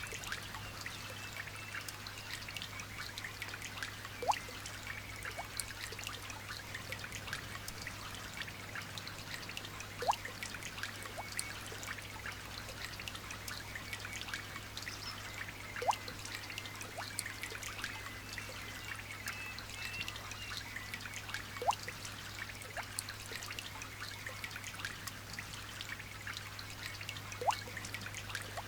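Light rain dripping and trickling: a steady patter of many small drops, with one louder drip plinking about every six seconds.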